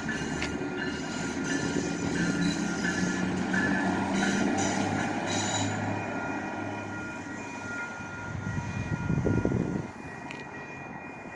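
SMART Nippon Sharyo diesel multiple-unit train running past, its engine rumbling under a high, steady wheel squeal. The sound swells over the first few seconds, then fades after about six seconds.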